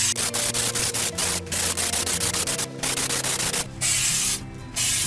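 Aerosol spray can hissing, first in rapid short spurts and then in longer blasts with brief pauses.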